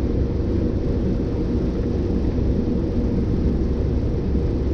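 Steady road and engine noise of a vehicle driving at highway speed, heard from inside the cab: an even rumble with a faint steady hum.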